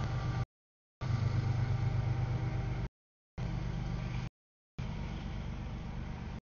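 CSX double-stack container freight train rolling past, a steady low rumble and hum of the moving cars. The sound cuts out to dead silence three times, each gap about half a second.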